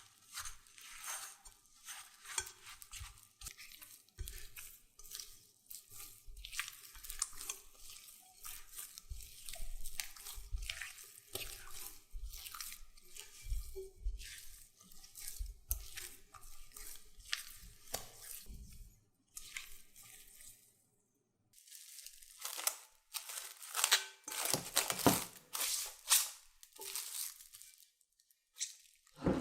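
Kitchen prep handling sounds: an irregular run of short scrapes, rustles and light knocks of utensils and food being worked, louder near the end.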